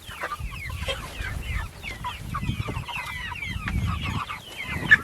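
A flock of chickens clucking and chirping continuously, with one louder squawk near the end. A low rumbling noise runs underneath, swelling twice in the middle.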